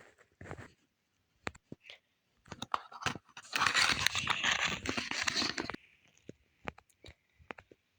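Album packaging being unwrapped by hand: scattered taps and clicks, then about two seconds of dense crinkling and tearing in the middle, followed by more light taps.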